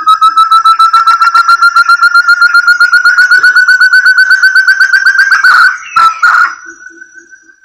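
Puyuh hutan (forest partridge) lure call: a long fast series of clear whistled notes, about ten a second, slowly rising in pitch. It breaks off near the end into a couple of harsher notes, then fades.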